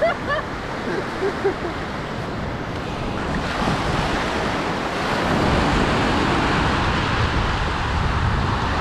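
Ocean surf breaking and washing up the beach, a steady rush that swells from about three seconds in.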